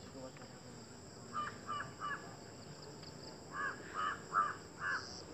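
A bird calling in a run of short repeated calls: three about a second and a half in, then five louder ones near the end, about two a second.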